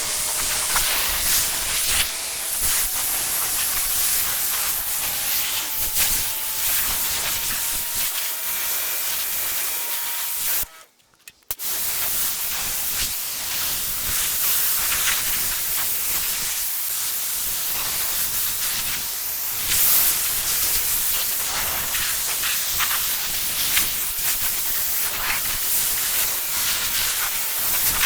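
Rinse water spraying hard onto a car's bodywork in a steady hiss, the spray stopping for about a second near the middle before starting again. The water is deionized, spot-free rinse water.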